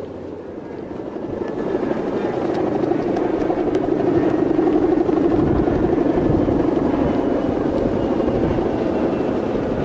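Droning hum of a Balinese kite's guangan (bowstring hummer), swelling over the first few seconds and then holding steady with a fast flutter, over the rumble of strong wind.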